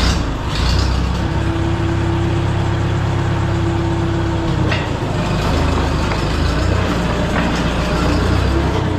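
Case 310 crawler dozer's engine running steadily, with a held whine from about one to four seconds in and a couple of light clanks later on.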